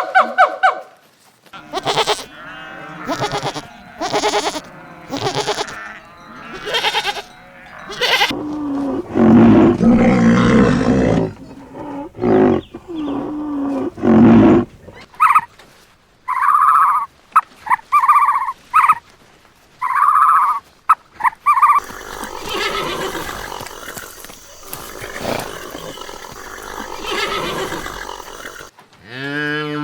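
Farm animals calling one after another: several kinds of repeated pitched calls in turn, with a louder, harsher stretch about eight to eleven seconds in.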